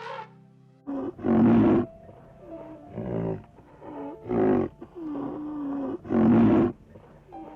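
A big cat roaring, a series of about four loud, deep calls spaced a second or two apart, with quieter calls between them.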